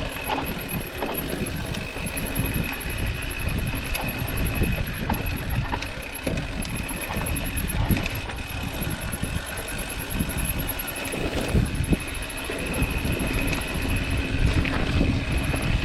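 Mountain bike ride on a dirt trail: wind rushing over the camera microphone and tyres rumbling over rough ground, with many small knocks and rattles, and a thin steady high tone throughout.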